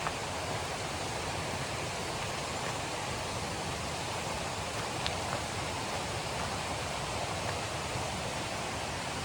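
Steady rush of a river's running water, an even hiss with no change, and a faint brief tick about halfway through.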